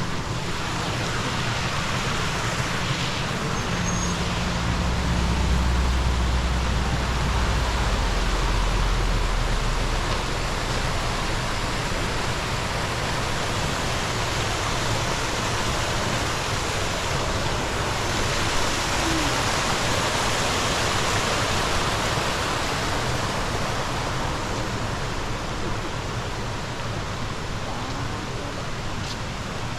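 Steady rushing of a mountain stream over rocks, with a low rumble from about three to ten seconds in.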